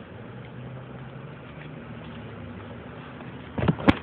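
1986 Oldsmobile Cutlass engine idling steadily while warming up from a cold start. A few sharp knocks come near the end as the phone recording it is picked up.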